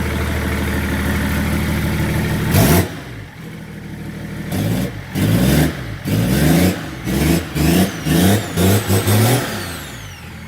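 BMW M57 straight-six diesel, just started for the first time in a Land Rover, idling steadily. It is revved sharply once, then given a run of short throttle blips, before it drops back to idle near the end.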